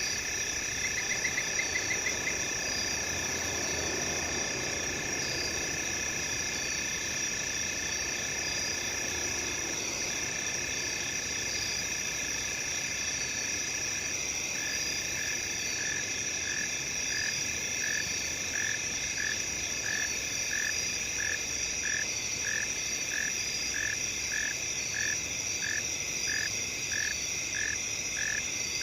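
Night chorus of crickets and other insects: several steady high trills layered together. About halfway through, a lower chirping call starts pulsing evenly, about one to two times a second.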